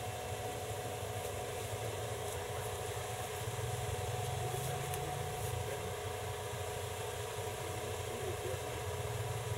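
A four-wheel-drive's engine idling steadily, a low hum with a faint steady whine above it.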